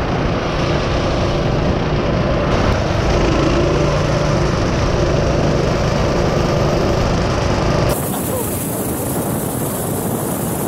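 Small gasoline engine running hard on a racing mini bike or go-kart. The sound changes abruptly about eight seconds in, losing its low end and turning hissier.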